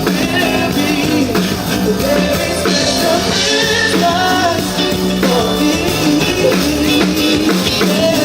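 Band music with a lead singer: an upbeat rock song with guitar and drums, played continuously.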